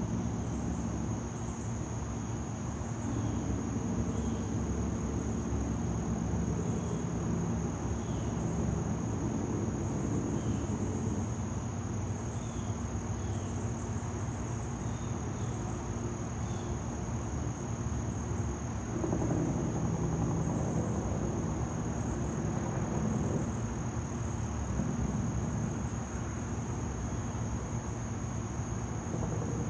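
Insects, crickets by the sound, trilling in one steady high-pitched tone, over a low steady rumble.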